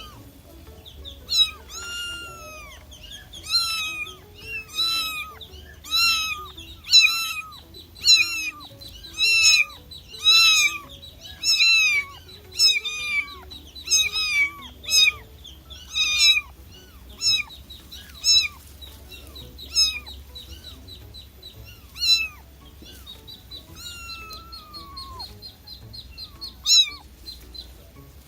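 Kitten meowing over and over in short, high-pitched calls, about one a second, growing sparser and fainter in the last third.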